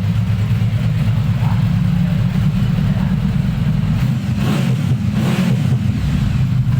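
Yamaha VMAX 1700's V4 engine idling steadily, heard through its exhaust.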